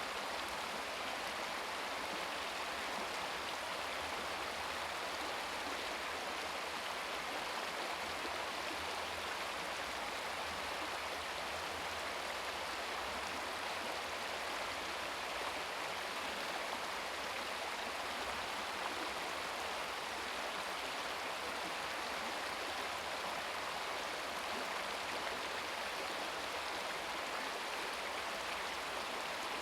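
Shallow brook babbling steadily over rocks, an even rush of running water.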